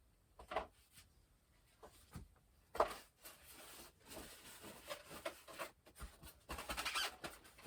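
Light rustling and small clicks and knocks from handling the lightweight foam parts of an RC plane and their packaging, with a longer stretch of rustling near the end.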